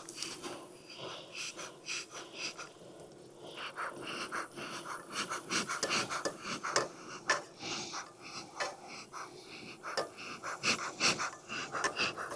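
Irregular clicks, knocks and scraping rustles of wooden hive frames and a metal hive tool being worked during a honeybee hive inspection.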